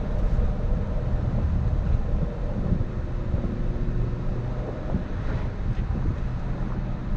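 BMW E60 M5's V10 engine running steadily at low revs while driving, still warming up, under a steady rush of road and wind noise.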